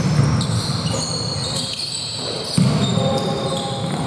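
Basketball game sounds in a gym hall: rubber sneakers squeaking on the court in many short high chirps, with a ball bouncing, in an echoing hall.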